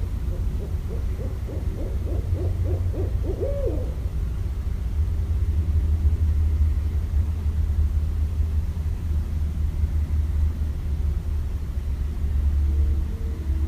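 Barred owl calling: a quick run of about ten short hoots that ends in one drawn-out hoot rising and falling in pitch, over a low rumble. Near the end two steady tones come in.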